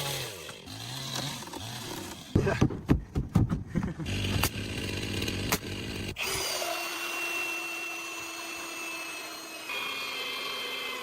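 A power saw running on timber, with a quick run of sharp knocks about two and a half seconds in and a steady whine through the second half.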